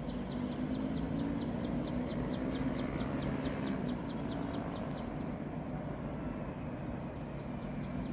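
D19E diesel-electric locomotive engine running steadily with a low drone. A quick series of high ticks, about four a second, sounds over it and fades out about five seconds in.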